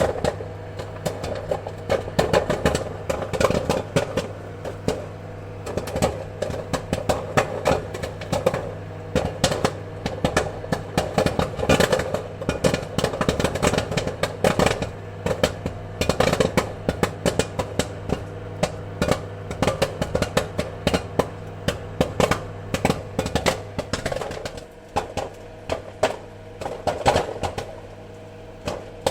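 Popcorn kernels popping in rapid, irregular succession, many sharp pops a second, over a steady low hum.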